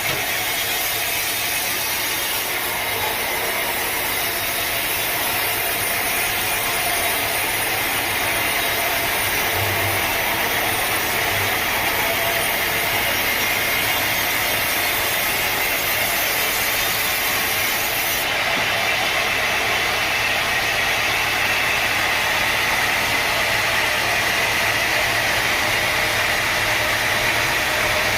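Sawmill machinery running: a loud, steady mechanical noise that holds even for the whole stretch.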